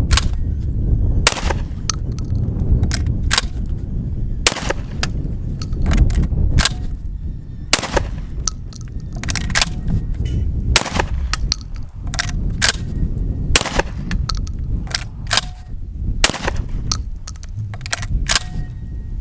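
Beretta 1301 Tactical 12-gauge semi-automatic shotgun firing a long string of shots, roughly one a second, with no stoppage: the gun is feeding and cycling properly after a warranty repair for failures to feed. Wind rumbles on the microphone underneath.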